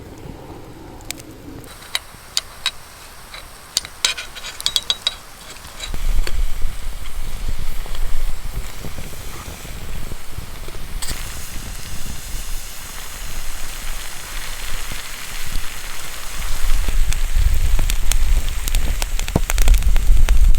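Wood campfire crackling, with sharp separate pops in the first few seconds. About six seconds in, a louder steady hiss and low rumble set in.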